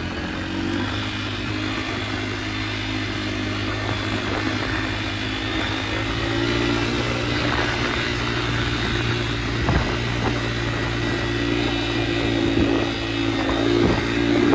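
Yamaha dirt bike engine running at a steady, even speed, with a couple of sharp knocks about two-thirds of the way through and near the end.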